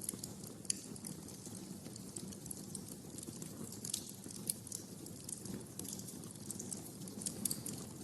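Wood fire crackling in a fireplace: irregular sharp pops and snaps over a steady low rumble of the burning logs, with a few louder pops scattered through.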